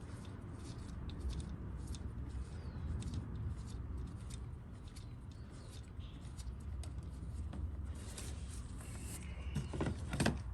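Small metallic clicks and scrapes of a spark plug socket and extension being turned by hand, threading a new spark plug into the engine's cylinder head, with a louder clatter near the end over a steady low hum.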